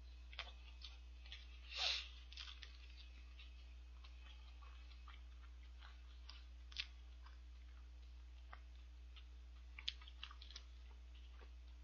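A person chewing a fried shrimp burger with the mouth closed: faint, scattered soft clicks and crunches, with one louder mouth sound a little under two seconds in, over a steady low hum.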